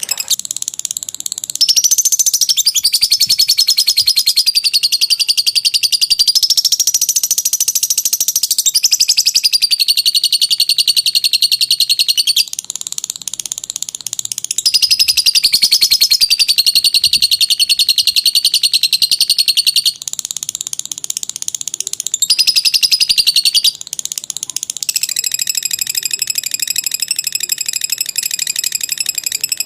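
Lovebird 'ngekek': a long, rapid, high-pitched chattering trill held for several seconds at a time. Loud phrases alternate with brief softer stretches, which come about 12, 20 and 24 seconds in.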